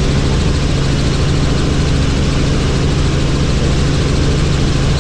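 Helicopter in flight: a steady, loud drone of rotor and turbine engine, with a low pitched hum over dense rushing noise.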